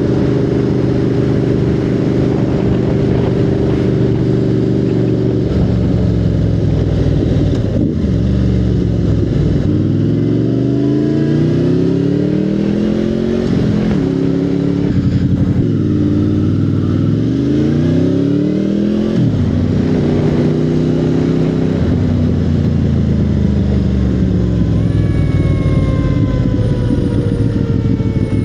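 Motorcycle engine running along steadily, then twice revving up with rising pitch and dropping sharply as it shifts up a gear, before settling back to a steady cruise.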